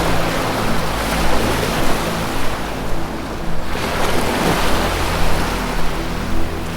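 Ocean surf washing in and out in slow surges, with low sustained music tones held underneath that change pitch partway through.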